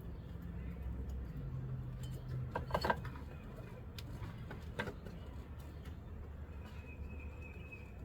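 A few light metallic clicks and clinks, a cluster about three seconds in and another near five seconds, over a low steady hum.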